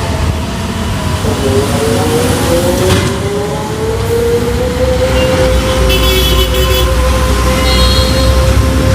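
Heavy truck driving by on a road amid traffic. Its engine note rises over the first few seconds, then holds steady. A deep rumble swells from about halfway through, and short high-pitched tones sound near the end.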